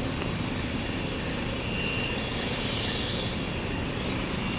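Medical helicopter's turbine engine running on the ground before liftoff: a steady rushing noise with a faint, high, even whine.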